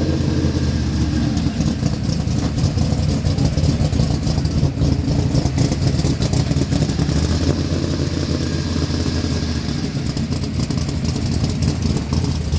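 Monster truck's engine running steadily at idle, loud and low.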